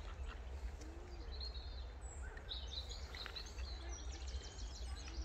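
Small birds chirping over a steady low rumble of outdoor background noise. The calls start about a second in, with a quick trill of repeated notes around the middle.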